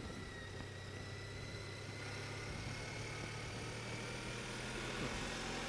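Honda ST1300 Pan European's V4 engine running as the motorcycle rides along, with road noise. A thin whine rises slowly in pitch as the bike picks up speed.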